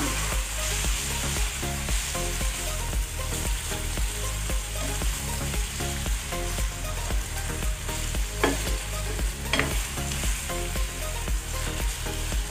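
Sliced beef and onions sizzling in a hot nonstick frying pan as they are stirred and turned with a plastic spatula, with a couple of sharp scrapes or taps on the pan past the middle. Background music with a steady beat plays underneath.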